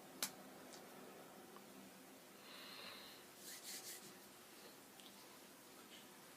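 Near silence: faint room tone with a sharp click just after the start and a few brief rustles about three and a half seconds in.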